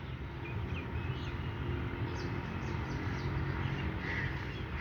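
Scattered short chirps from small birds over a steady low background rumble.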